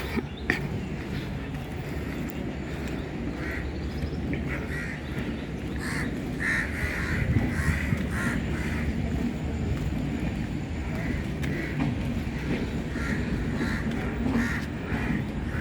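A passing train's steady low rumble, with many short, high squeaks and a few sharp clicks repeating over it.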